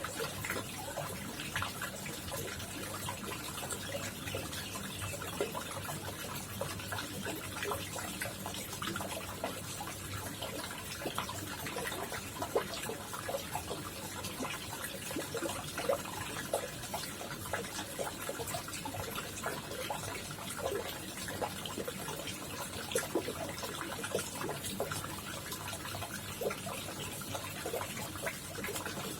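Koi pond water splashing steadily, with many small drips and plops.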